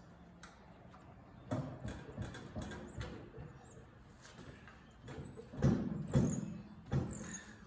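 Dull clunks and knocks in two irregular groups, about a second and a half in and again near six seconds, from heavy tractor parts and jacks being worked while the halves of a Massey Ferguson 165 are split apart at the clutch.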